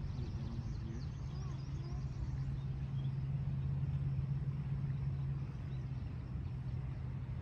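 A motor runs steadily with a low, even hum, and a few small birds chirp during the first two seconds.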